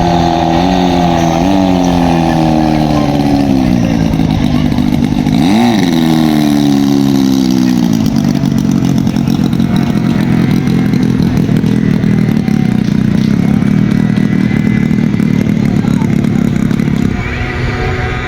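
Racing power boat engine being revved during a warm-up. Its pitch steps and glides up and down, with a quick blip up and back about six seconds in. From about eight seconds it settles into a steady, rougher high-revving run.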